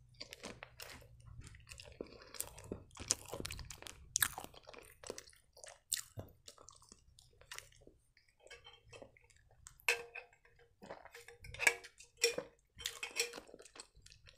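A person chewing a mouthful of soft cherry-vanilla strudel, heard as irregular small clicks and smacks of the mouth.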